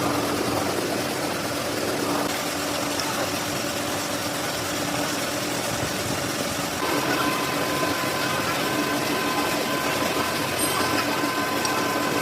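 A machine tool running with a steady hum; about seven seconds in its sound changes and a higher steady whine sets in.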